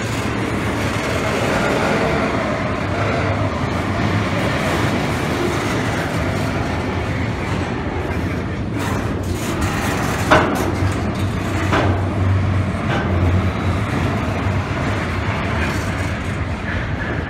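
Double-stack intermodal freight train passing at close range: a steady rumble of steel wheels on rail, with a few sharp clacks around the middle.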